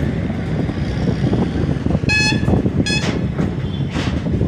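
Passenger train running, a steady low rumble of wheels on rails heard from a coach. A short, high horn toot about two seconds in, and a briefer one about a second later.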